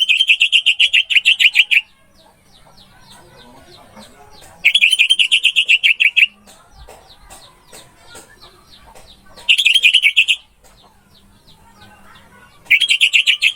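Orange-headed thrush song: four loud bouts of a fast rattling trill of evenly repeated notes, each lasting one to two seconds, with softer chirps in between.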